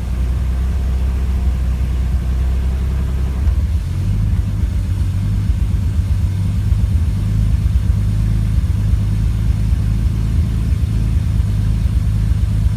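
Car engine idling with a misfire. The low rumble is smooth at first, then from about four seconds in turns uneven and choppy, with irregular pulses.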